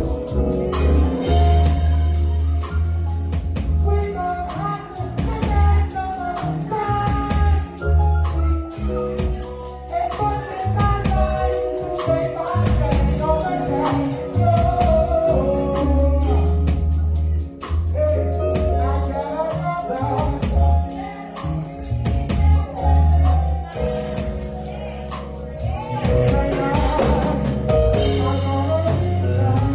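Gospel song performed live: a solo vocalist singing with band accompaniment, a steady bass and drums underneath.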